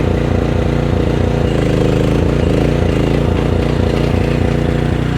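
Diesel engine of heavy equipment running under hydraulic load while lifting a stuck mini excavator, its pitch repeatedly dipping and recovering.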